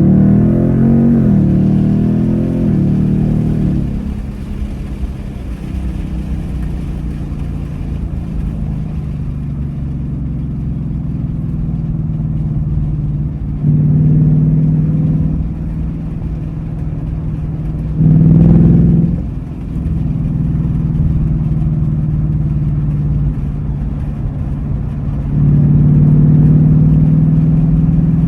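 Ford Mustang GT's 5.0-litre Coyote V8 under way. It pulls hard at the start, with the engine note changing pitch, then settles into a steady low drone at cruise. There are short bursts of throttle about halfway through, a brief sharp blip about two-thirds in, and another pull near the end.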